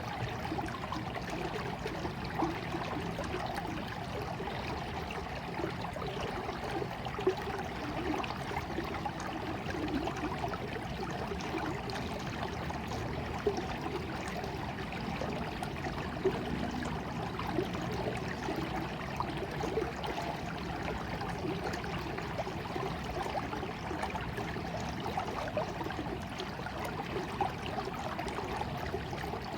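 Small stream of water running and trickling steadily, with light splashes and gurgles scattered throughout.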